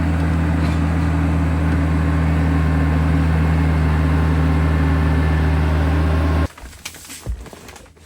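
Vehicle engine idling with a steady low hum; it cuts off abruptly about six and a half seconds in, leaving only faint clicks and handling sounds.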